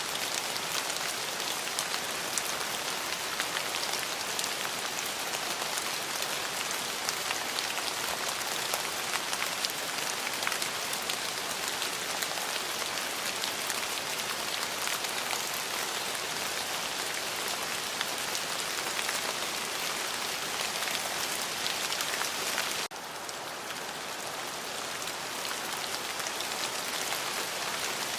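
Steady rain falling, a dense even hiss with a constant patter of individual drops. A little over three-quarters of the way through, it suddenly drops a step quieter and duller, then slowly swells back.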